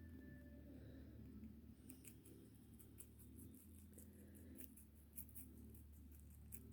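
Baby lionhead rabbit chewing leafy greens: faint, quick crisp clicks of crunching leaves, starting about two seconds in, over a low steady hum.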